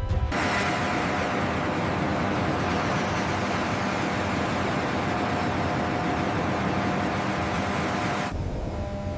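Steady machine noise, a loud even hiss with a faint hum under it, that starts just after the beginning and cuts to a deeper rumble near the end.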